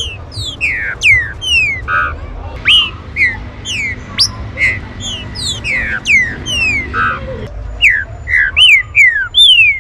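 Green-winged saltators (trinca-ferro) calling in a rapid run of short, down-slurred whistled notes, two to three a second and sometimes overlapping, over a low background rumble.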